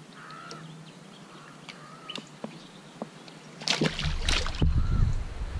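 A few faint short chirps, then, near the end, a loud spell of water splashing and sloshing at the kayak.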